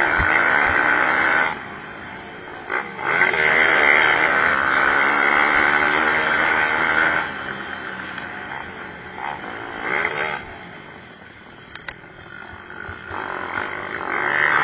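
Pit bike engines revving up and down as the bikes race, their pitch rising and falling; loud through the first half, quieter from about seven seconds in, and swelling again near the end.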